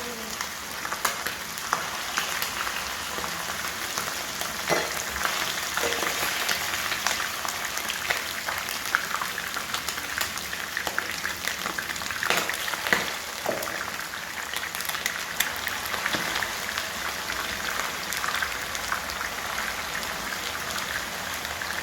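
Chicken pieces deep-frying in hot cooking oil: a steady sizzle with frequent sharp crackles and pops.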